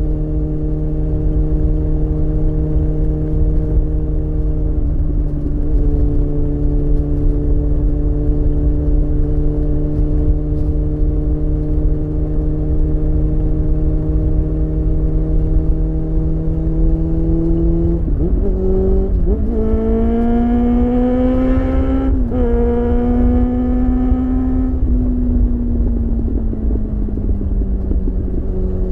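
Suzuki Bandit 600's inline-four engine running at steady cruising revs under wind rush on the microphone. About two-thirds of the way in the revs jump up with a downshift and climb as the bike accelerates, then hold and fall away near the end.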